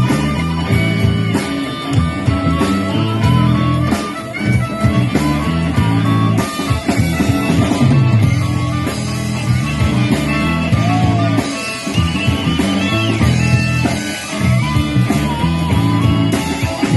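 Blues-rock band playing an instrumental passage, with a guitar lead over the band and bent, gliding notes about halfway through.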